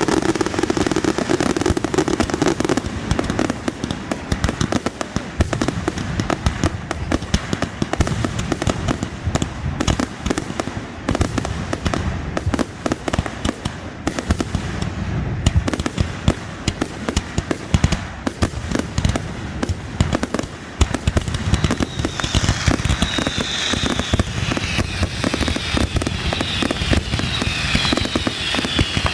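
Fireworks display: a dense, rapid run of bangs and crackling. High tones falling in pitch are added over the last several seconds.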